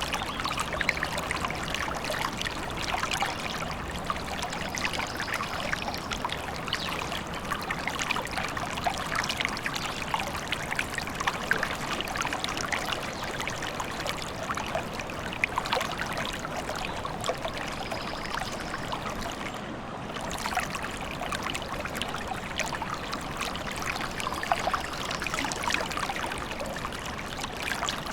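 Small forest stream trickling and babbling steadily, with fine splashing.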